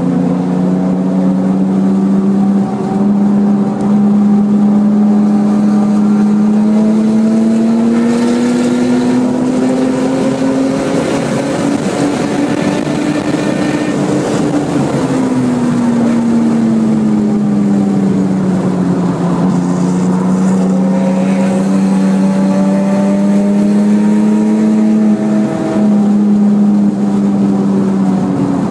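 Porsche 996 Turbo's twin-turbo flat-six under throttle in fourth gear, its note climbing slowly for about fourteen seconds, then dropping as the car slows and rising again before easing off near the end.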